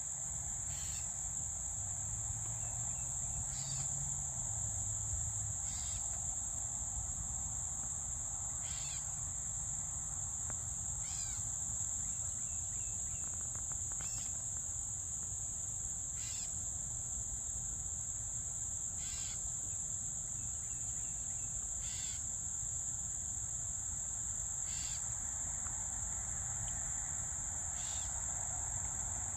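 Steady, high-pitched drone of insects, with a bird's short call repeating every two to three seconds over it.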